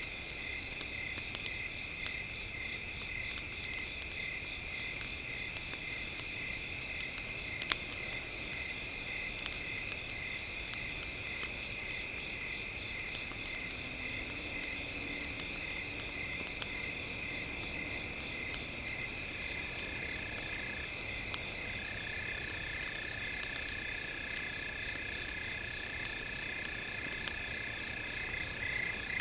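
Crackling bonfire with sparse pops, one stronger pop about eight seconds in, under a steady high-pitched chorus of insects chirping in even pulses.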